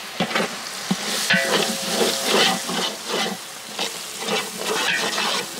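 Onion and ginger-garlic paste sizzling in oil in a large metal pot, stirred with a wooden spatula in repeated scraping strokes as red chili powder is worked in.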